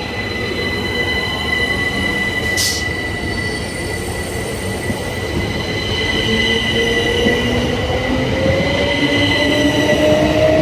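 Southeastern electric multiple-unit train running, its motor whine rising steadily in pitch as it gains speed over steady high-pitched tones, growing louder. A brief hiss sounds about a quarter of the way in.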